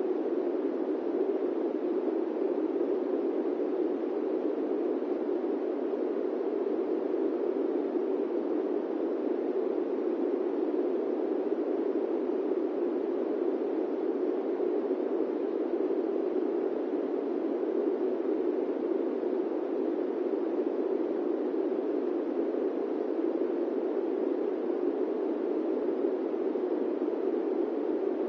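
Steady airplane-cabin white noise: an even, unbroken hiss pitched low, with no engine tones and no changes.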